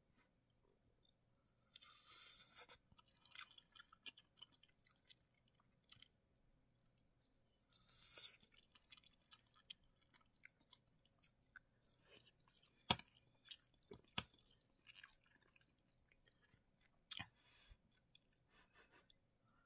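Faint close-up chewing: soft, wet mouth smacks and small clicks of a person eating, with one sharper click partway through.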